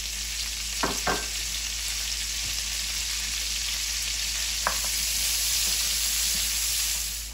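Diced onion and bacon lardons sizzling in hot rendered bacon fat in a cast-iron Dutch oven, a steady frying hiss as the onion starts to sweat. A few light clicks come about a second in and again near five seconds, and a wooden spoon stirs the pan near the end.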